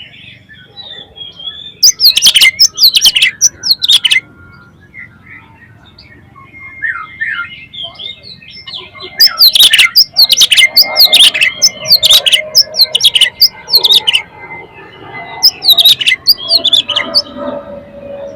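Oriental magpie-robin (kacer) singing loudly in full song: clusters of rapid, sharp, steeply falling notes about two seconds in, again from about nine to fourteen seconds, and briefly near sixteen seconds, with softer twittering between.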